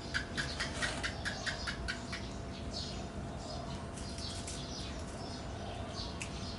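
Small birds chirping: a rapid run of about eight sharp chirps in the first two seconds, then scattered short, high, falling chirps over a steady background hum.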